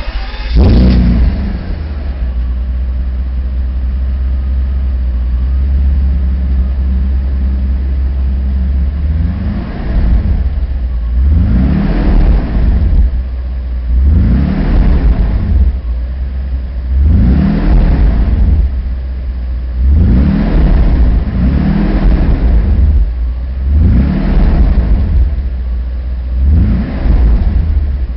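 Mercedes-Benz W140 S600's 6.0-litre V12, breathing through a Lorinser aftermarket rear silencer, fires up and idles steadily for about nine seconds. It is then blipped again and again, each rev rising and falling back to idle, about every two seconds.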